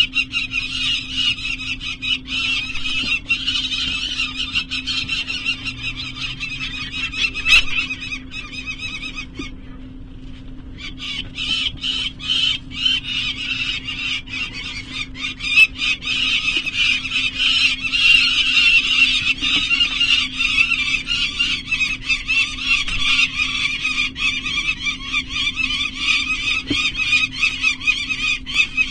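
Peregrine falcons calling in a continuous, rapid, harsh chatter of many quick notes, stopping for about a second midway before resuming. A faint steady hum runs underneath.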